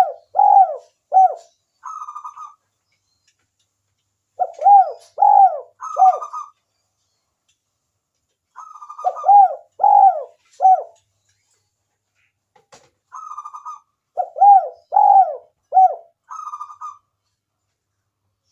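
Spotted dove (tekukur) cooing. Four phrases come about every four seconds, each a short rolling trill followed by a few deeper arched coos, with silence between phrases.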